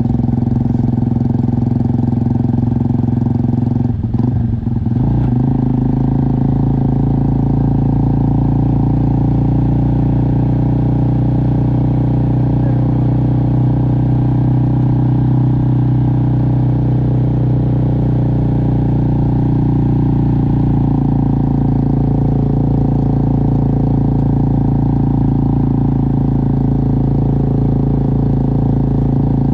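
Motorcycle engine running steadily at an even speed, with a brief dip in sound about four seconds in.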